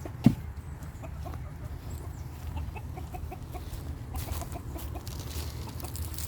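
Chickens clucking over and over in short, quiet calls. A single sharp thump comes about a third of a second in, the loudest sound here.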